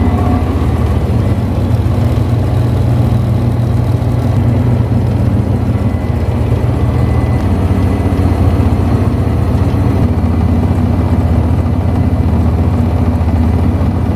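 Jet airliner's engines running at taxi power as the plane rolls past: a loud, steady low rumble with a faint high whine.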